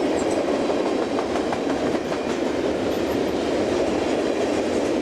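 Freight train of old Atlantic Coast Line flip-top hopper cars rolling past: a steady rumble of steel wheels on rail, with scattered clicks as the wheels cross rail joints.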